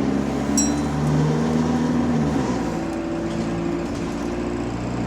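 Diesel bus engine and gearbox under way in limp mode, the engine note stepping up and down in pitch through gear changes; the rider also suspects a turbo fault. A short high ding about half a second in.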